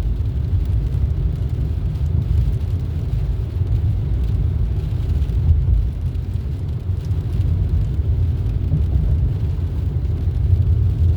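Steady car cabin noise while driving: a low, even rumble of road and engine noise.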